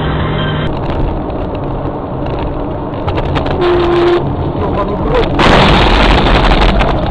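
Vehicle and road noise on a dashcam recording, with a brief single horn-like tone about four seconds in and a sudden loud rushing noise starting about five and a half seconds in.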